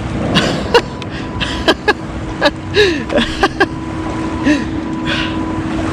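A quick string of sharp clicks and knocks from gear being handled on a kayak, over steady wind noise on the microphone, with a faint steady whine underneath from about a second in until near the end.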